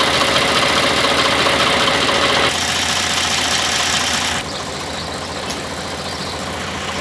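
Miniature railway train's engine running with steady noise; the sound steps down in level about two and a half seconds in and again a little after four seconds.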